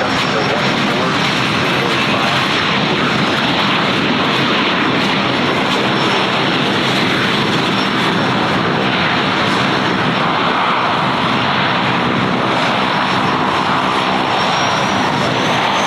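Airliner engines running loud and steady, with a thin high whine that rises slightly near the end.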